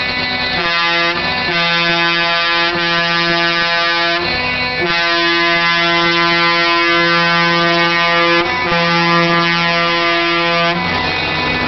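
Truck air horns sounding a chord in long, loud blasts with short breaks between them, ending about eleven seconds in.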